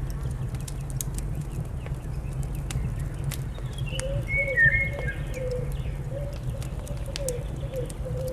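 Crackling fire with sharp pops over a steady low rumble. Bird sounds come over it: a brief high twitter about four seconds in, then a low wavering cooing call from about the same point on.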